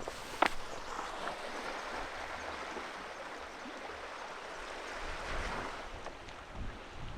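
Sea waves washing in on the coast: a steady rush that swells about five seconds in. A single sharp tap sounds about half a second in.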